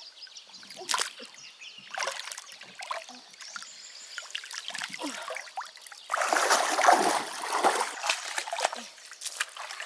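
Water splashing and sloshing in irregular bursts, loudest for a couple of seconds about six seconds in.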